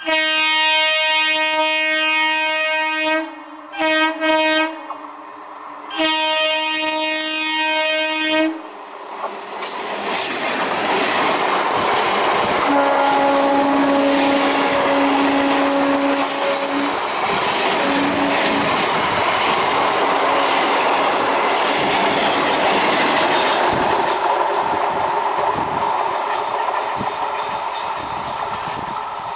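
Conventional EMU local train's horn: one long blast, two short ones, then another long blast. Then the train passes close with a loud, steady rumble and clatter of wheels over the rails, while a second, lower horn sounds faintly for about four seconds.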